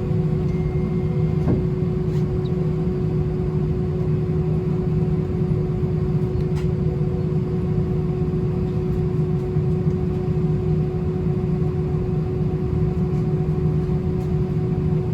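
Steady cabin noise inside an Airbus A319 on the ground after landing: a low rumble with a constant hum from the engines and air systems, and a few faint clicks.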